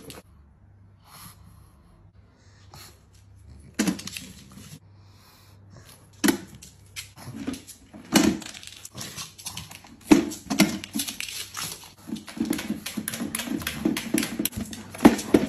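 A dog vocalizing in short separate bursts from about four seconds in, coming closer together and almost continuous near the end.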